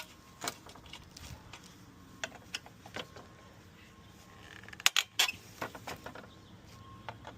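Hand tools clinking and clicking as screwdrivers are picked through and handled: scattered sharp metallic clicks, several in a cluster about five seconds in.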